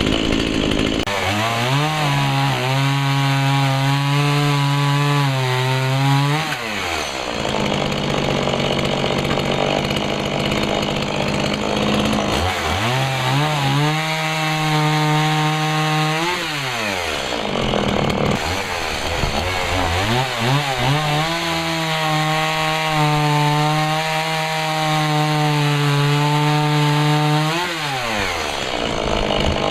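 Stihl MS 170 30cc two-stroke chainsaw cutting firewood branches: three long cuts about ten seconds apart, where the engine note drops and holds steady, with the saw running in between.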